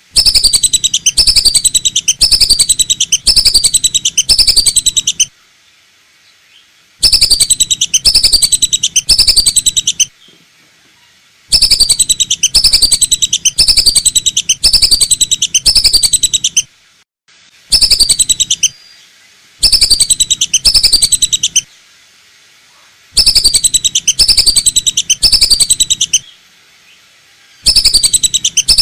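Lesser whistling duck (belibis batu) lure call: a loud series of rapid, repeated falling whistles, coming in bursts of a few seconds with short pauses between.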